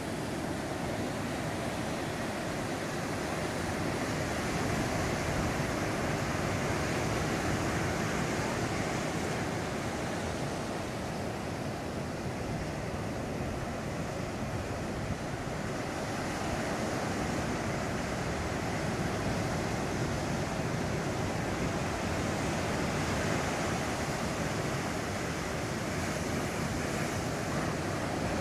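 Heavy surf from a ground swell (mar de leva) breaking and washing on the beach: a continuous rushing of waves that swells and eases slowly, with some wind on the microphone.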